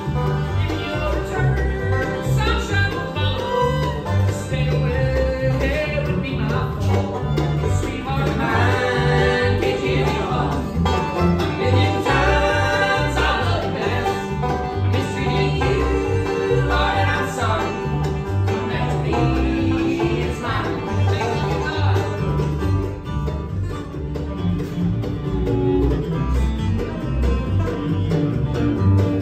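Bluegrass band playing, with banjo and guitar prominent over a steady bass beat.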